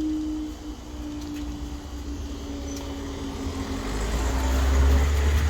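Road traffic moving again over the level crossing once the barriers are up: a steady engine hum fades away, then a vehicle approaches with a low rumble that grows loudest near the end.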